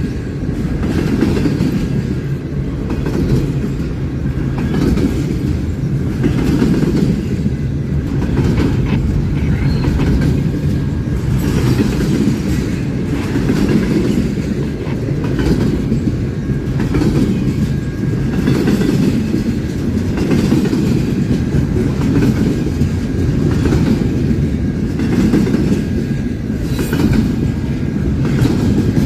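Train cars rolling past at steady speed: a continuous low rumble with repeated clicks of the wheels over rail joints.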